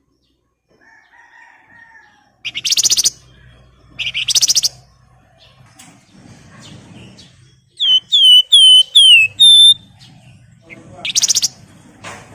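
Javan fulvetta (wergan Jawa) singing: short, rapid chattering trills, then a run of five clear whistles that each slide down in pitch, the last one held level, then another chatter.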